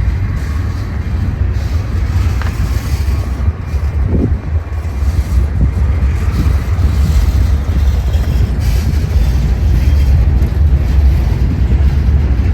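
Freight train rolling past: a steady low rumble of the cars on the rails, growing louder about five seconds in, with wind buffeting the microphone.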